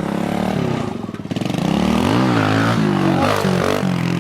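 Pit bike's single-cylinder engine running, revved up and back down twice in the second half.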